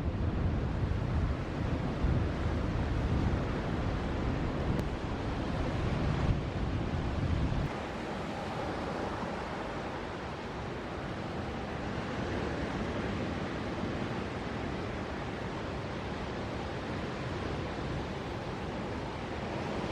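Ocean surf breaking on a reef, a steady wash of noise. Wind buffets the microphone with a heavy low rumble until it stops suddenly about eight seconds in.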